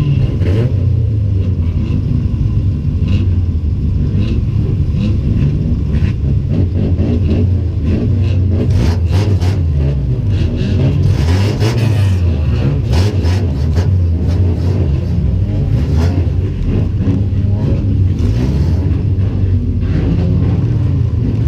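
Racing car's engine heard from inside the stripped cabin, revving up and down as it laps the oval, with repeated knocks and rattles throughout.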